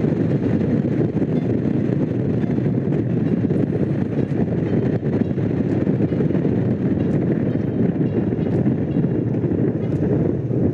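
Honda CX500's water-cooled V-twin engine running at a steady cruise while riding, mixed with wind rushing over the microphone. The sound holds steady throughout, with no gear change or rev.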